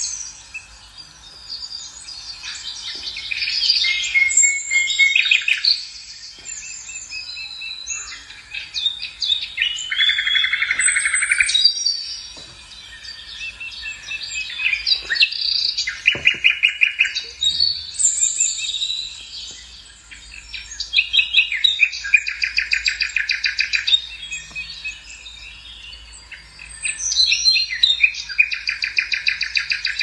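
Songbirds singing, several overlapping songs with fast trilled phrases that recur every few seconds.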